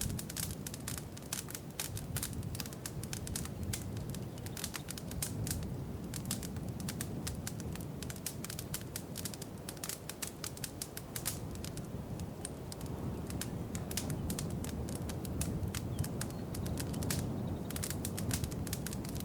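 Wood fire crackling in a fireplace: a steady low rumble of the flames with a constant scatter of sharp pops and snaps, thicker near the start and again near the end.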